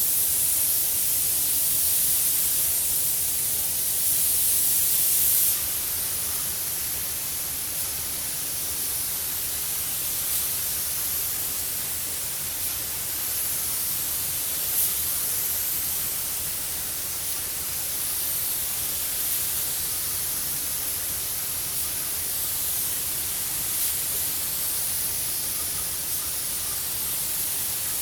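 Compressed-air spray gun hissing steadily as it lays down a second coat of gloss clear coat on a car panel. The hiss swells and fades a little as the gun sweeps, and drops slightly about five seconds in.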